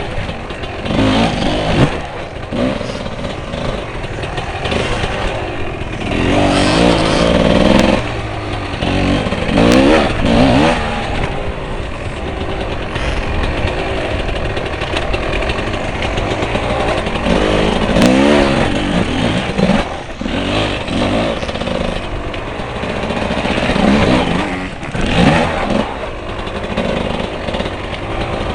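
Off-road motorcycle engines revving hard again and again, the pitch climbing and dropping with the throttle, the biggest surges about seven, ten, eighteen and twenty-five seconds in.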